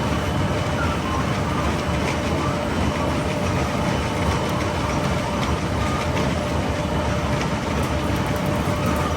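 Poultry house muck belts and cross conveyor running, with manure being carried out to a trailer: a steady low mechanical rumble with a faint steady whine over it.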